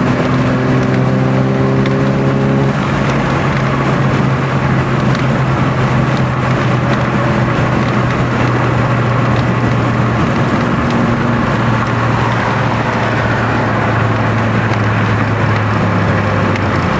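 Motor vehicle engine running at a steady pitch under a loud, constant rush of road and wind noise.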